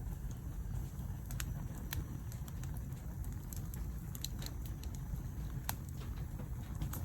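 Wood fire crackling, with sharp pops scattered about once a second over a low steady rumble.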